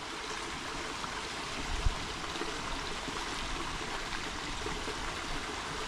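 Runoff water from the hills running steadily as a shallow stream across the trail. There is a brief low thump about two seconds in.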